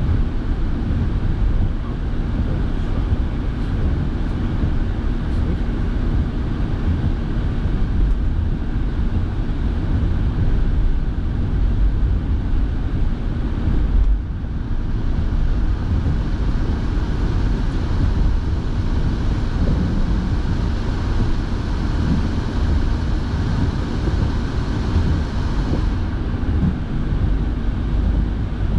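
Steady in-car noise from a moving car: low engine and tyre rumble with the heater fan blowing. There is a short dip in the hiss about 14 seconds in.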